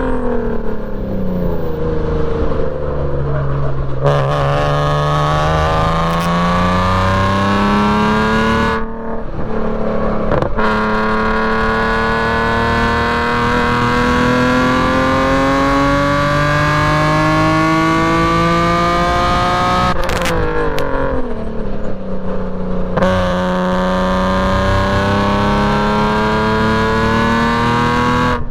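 BMW E46 M3's S54 inline-six with a straight-piped exhaust running hard on track. The note drops at first, then climbs steadily through long pulls, with brief breaks about nine and twenty seconds in.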